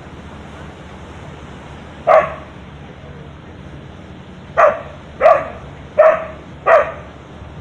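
A dog barking: one sharp bark about two seconds in, then four more in quick succession, roughly one every two-thirds of a second, over steady background noise.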